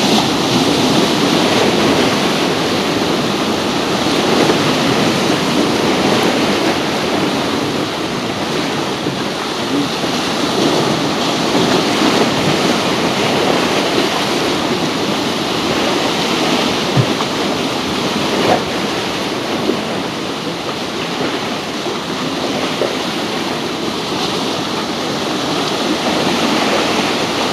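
Harbour seawater washing and splashing, a steady rushing noise.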